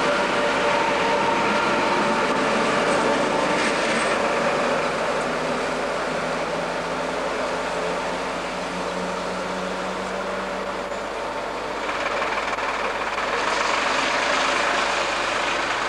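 Class 86 electric locomotive and its coaches pulling away from a station. The wheels rumble steadily on the rails and several steady tones from the locomotive fade as it draws off. About twelve seconds in a broad hiss rises and holds.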